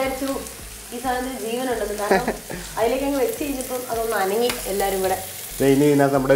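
Masala-coated prawns sizzling as they grill in a pan, a steady hiss under a woman's voice and, near the end, a man's voice.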